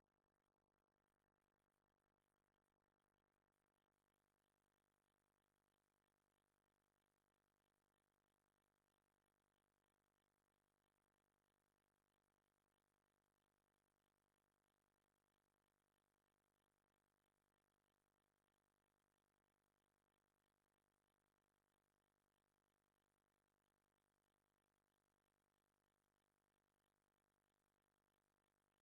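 Near silence: the sound track is essentially empty.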